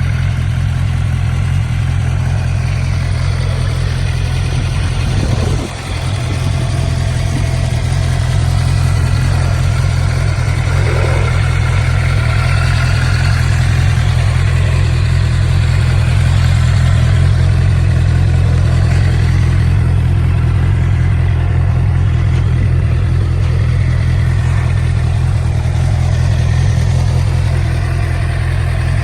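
2009 Suzuki GSX-R750's inline-four engine idling steadily, with a brief dip in level about six seconds in.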